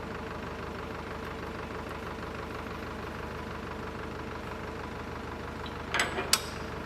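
Excavator diesel engine idling steadily, with two short sharp knocks close together near the end.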